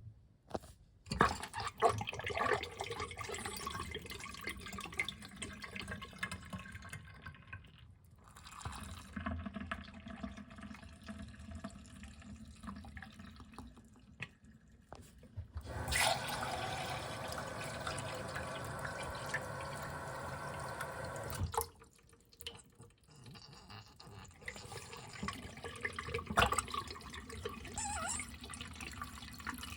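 Water flushing through a miniature model toilet and its small tank refilling, with splashing and dripping. A steady run of water starts about halfway through and cuts off suddenly a few seconds later.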